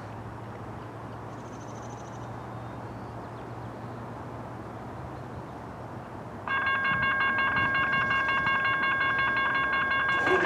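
Background rumble with a low steady hum, then about two-thirds of the way in a railroad grade-crossing warning bell suddenly starts ringing, a rapid, steady high-pitched ding that signals an approaching train.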